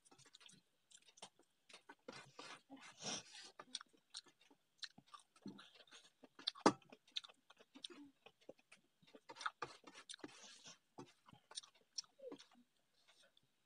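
Close-up eating sounds: chewing with wet mouth clicks and smacks, mixed with fingers pressing and scraping food across a steel plate. The sounds come as irregular short clicks, with one sharper click about midway.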